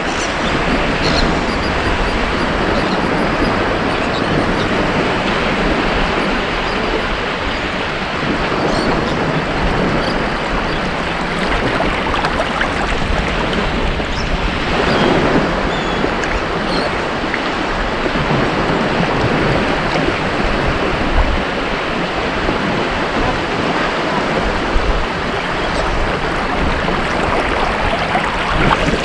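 Ocean surf washing onto a beach in a continuous wash of noise, with one wave breaking a little louder about halfway through.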